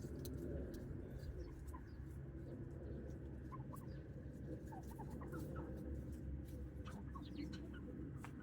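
Wild turkeys giving scattered short, soft clucks while foraging, over a steady low rumble.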